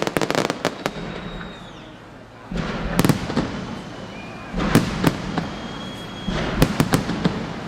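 Aerial fireworks display: volleys of sharp crackling reports with a low rumble, coming in clusters about every one and a half to two seconds, with thin whistles from shells rising between them.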